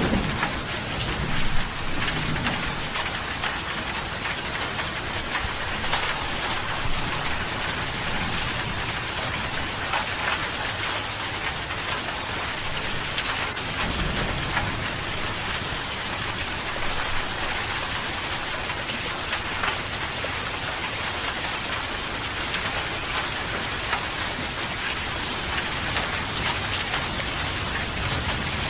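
Steady rainfall with scattered drop ticks. A low rumble of thunder fades away in the first couple of seconds, and another rolls in about halfway through.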